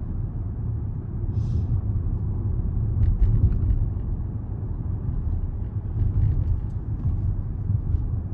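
Steady low rumble of road and engine noise inside a Range Rover's cabin while it drives along.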